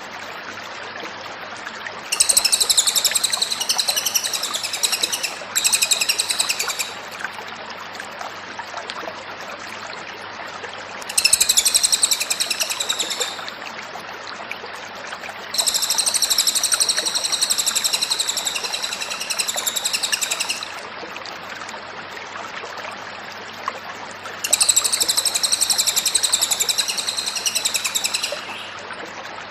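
Cililin (velvet-fronted nuthatch) singing in five bursts of rapid, high-pitched trilling, each lasting one to five seconds, with short pauses between. A faint steady hiss and low hum run underneath.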